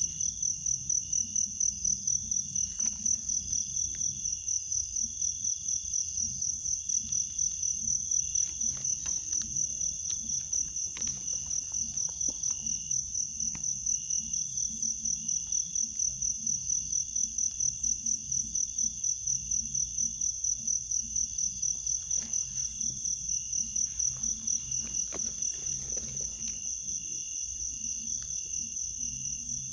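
Chorus of night insects, crickets by their sound: a loud, high-pitched trill that never stops, pulsing a few times a second. A few faint knocks come in the middle and near the end.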